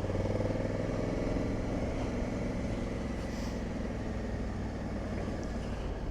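Honda CRF1100 Africa Twin parallel-twin engine running steadily on the move, heard from the bike's onboard camera under a constant rush of wind and road noise.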